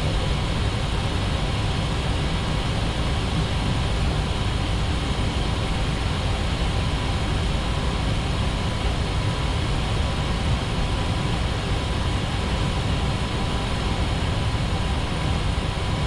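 Steady flight-deck noise of an Airbus A320neo in the climb: an even rush of airflow and air-conditioning hiss over a low rumble, with a faint steady whine underneath.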